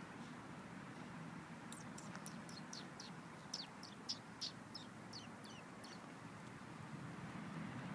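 A small bird singing a quick run of about a dozen short, high notes, each sliding downward, over steady background noise.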